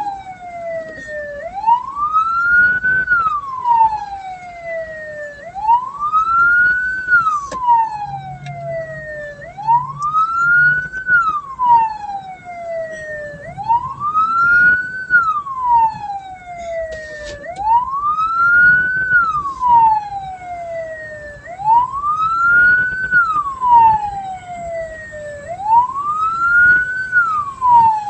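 Electronic vehicle siren wailing: each cycle rises quickly and falls slowly, repeating about every four seconds.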